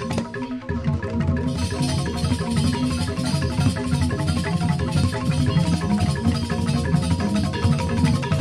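Balinese joged bumbung bamboo gamelan playing a classic Jembrana-style piece: fast interlocking bamboo xylophone strokes over sustained low bamboo bass tones. The bass drops out for a moment in the first second, then the full ensemble carries on.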